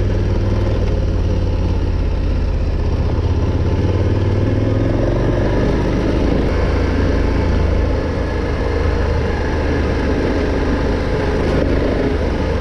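Adventure motorcycle engine running steadily at low speed under load while climbing a loose, rocky trail, easing off slightly about eight seconds in.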